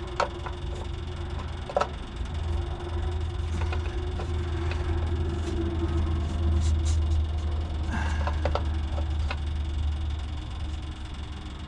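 Aftermarket electric fuel pump running with a steady hum while the fuel line of a Detroit 6-71 diesel is bled of air. There are two sharp clicks in the first two seconds, and a low rumble swells after about two seconds and fades near the end.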